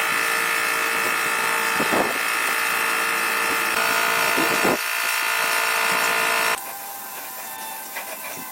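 Small electric power tool motor running with a steady whine, starting abruptly and cutting off about six and a half seconds in; a few light clicks and knocks follow.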